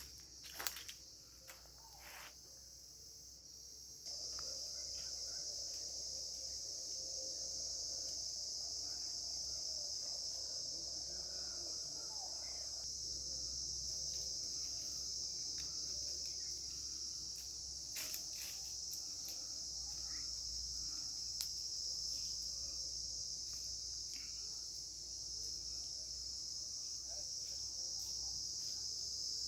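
Insects trilling steadily in a high, even band that starts suddenly about four seconds in. A few light clicks come before it.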